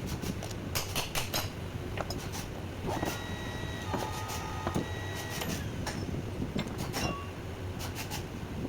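Irregular clicks and knocks of metal parts and tools being handled, with a brief ringing squeak-like tone in the middle, over a steady low hum.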